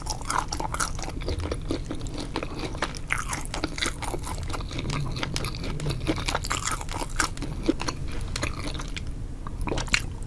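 Close-miked mukbang eating sounds: a person biting and chewing a sauce-coated spicy seafood boil, with dense, irregular clicking and crackling chews throughout.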